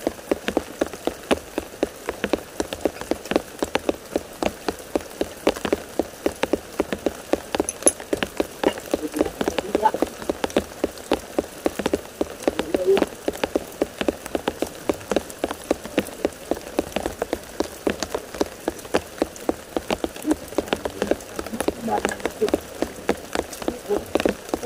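Light rain, its individual drops landing close by as sharp, irregular ticks several times a second over a faint steady hiss.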